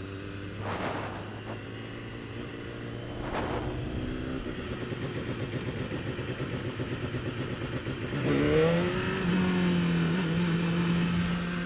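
BMW S1000RR inline-four with a muffled exhaust running at low speed, with two brief rushes of noise about one and three seconds in; about eight seconds in the revs rise as the bike accelerates, then hold at a higher steady note.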